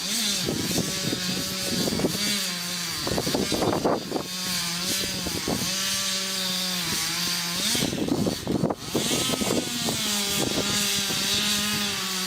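Stihl 440 two-stroke chainsaw running at high revs as it cuts the felling notch into an oak trunk. The engine pitch holds steady and dips briefly twice, about three and eight seconds in.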